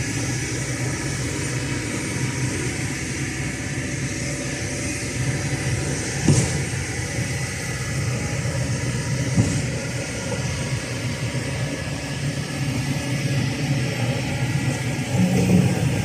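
Kobelco SK210LC excavator's Hino J05E-TG four-cylinder turbo-diesel engine running steadily, with two sharp knocks about six and nine seconds in.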